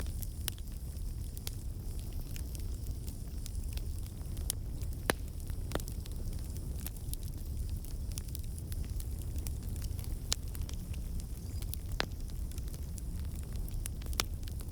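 Campfire burning: a steady low rumble of flames with irregular sharp crackles and pops of burning wood, a few louder snaps among them.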